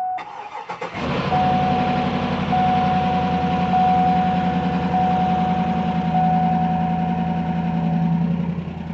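2009 Cadillac Escalade V8 cold start: the starter cranks briefly, then the engine catches about a second in and runs at a fast idle that settles lower about six seconds in. A repeating high warning chime from the dash sounds over it until near the end.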